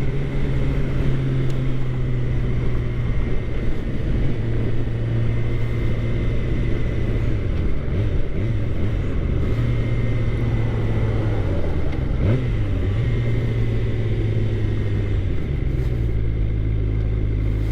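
2013 Suzuki GSX-R600's inline-four engine running steadily under way. Its note dips and recovers briefly about eight seconds in and again around twelve seconds, and settles into a slightly different tone near the end.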